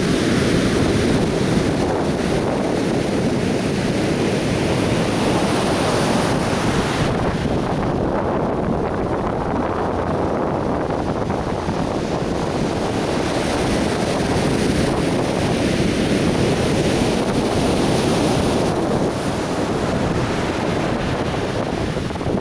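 Atlantic Ocean surf washing onto a beach, a continuous steady rush of breaking waves, with wind rumbling on the microphone. The high hiss of the spray eases off for a few seconds near the middle, then returns.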